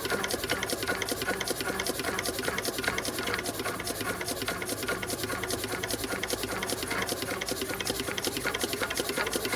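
Irrigation pump machinery clattering steadily with a fast, even ticking rhythm over a steady hum.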